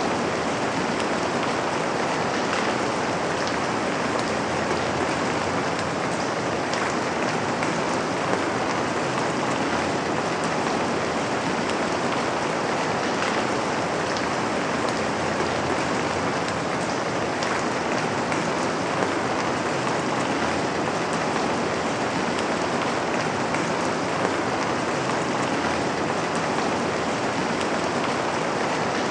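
Steady, even rain falling on a window pane, with a few sharper drop ticks now and then.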